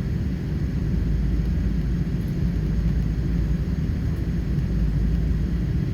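Steady low rumble of a Boeing 777-300 heard from inside the passenger cabin: engine and airframe noise with no sudden changes.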